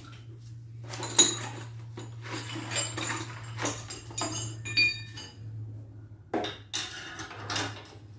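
Metal exhaust parts clanking and clinking as they are handled: a string of separate knocks, some ringing briefly, over a steady low hum.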